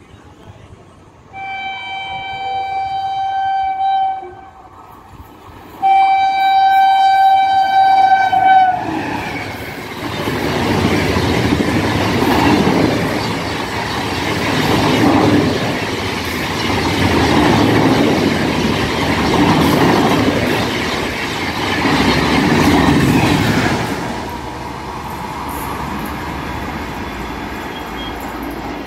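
WAP7 electric locomotive's horn sounded in two long blasts, the second ending with a slight drop in pitch as the locomotive passes. Then the Rajdhani Express coaches rush through at about 130 km/h, a loud rumble and clatter of wheels on rail that swells and fades in waves, dropping to a quieter tail as the last coach goes by.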